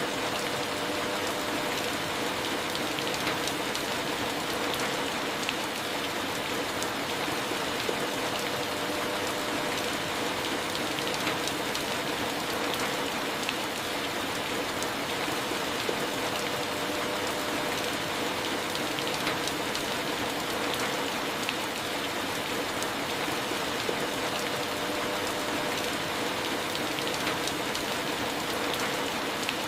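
Steady rain falling on a corrugated metal (tin) roof: a dense, even patter of countless drops striking the sheet metal, with no change in strength.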